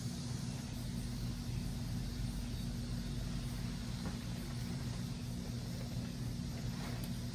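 A running engine or motor hums steadily and low, with an even hiss above it.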